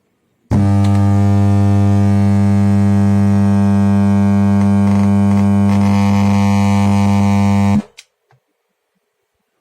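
Loud, steady hum from an old stereo amplifier through its speakers, starting suddenly about half a second in and cutting off near the end. The hum does not change with the volume control or input switches; the owner puts it down to radio interference, others to failed capacitors.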